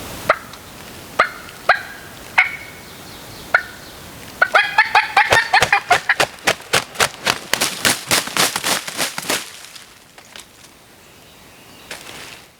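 Turkey calls: a handful of separate yelps, then about five seconds of rapid, fast-repeating calling that fades off.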